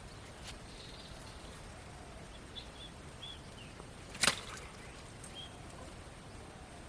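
Quiet outdoor background with a few faint, short high chirps and one short, sharp swish or slap about four seconds in.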